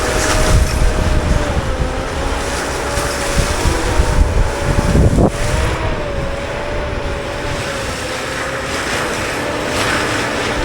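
CAT 299D3 XE compact track loader running a Fecon Blackhawk forestry mulcher: a steady machine drone with a wavering whine that dips and rises with load, and a sharp knock about five seconds in.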